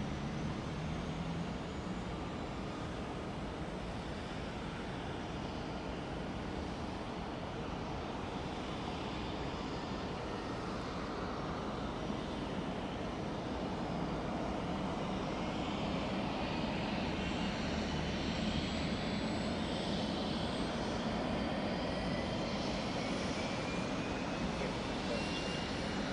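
Medical helicopter's turbine engine and rotor running steadily, with a whine that rises in pitch from about halfway through as the level creeps up.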